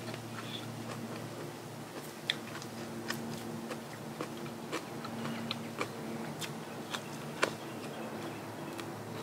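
A person chewing and biting food close to the microphone, with irregular crisp crunches and mouth clicks.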